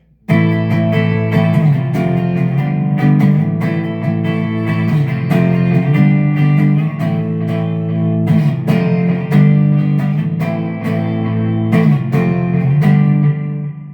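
Electric guitar, a PRS SE Hollowbody II with humbucker pickups, played through a Peavey Vypyr X2 modelling amp set to its 'British' amp model: chords struck repeatedly and ringing, beginning just after the start and stopping shortly before the end.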